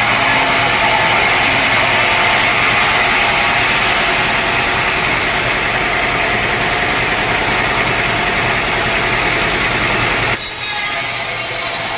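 Sawmill machinery running steadily with a low hum. About ten seconds in, the sound changes abruptly to a higher, hissier sawing sound.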